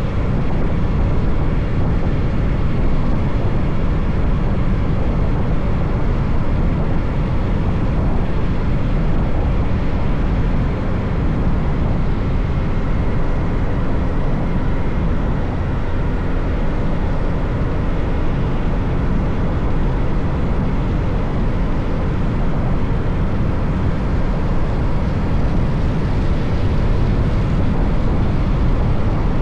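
Motorcycle cruising steadily: a loud, even rumble of wind and road noise with a faint, steady engine hum, no change in speed or gear.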